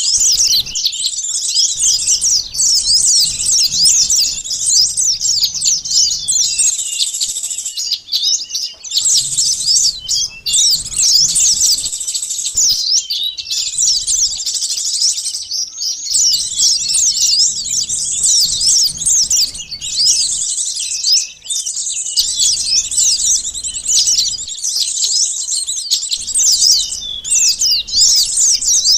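A dense chorus of small songbirds, sunbirds among them, chirping and twittering rapidly at high pitch: a bird-trapping lure call meant to draw in small birds. Brief lulls come about eight and twenty-one seconds in.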